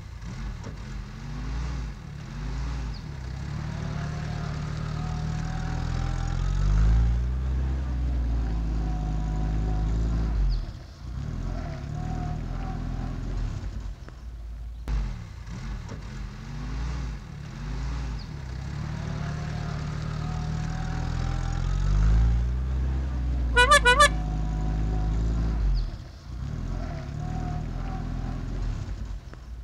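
Heavy truck engine running, its pitch rising and falling as it revs. A short warbling horn toot sounds late on.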